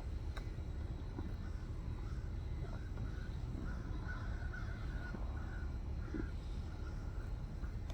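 Bird calls: a run of short, repeated calls from about halfway through, over a steady low rumble.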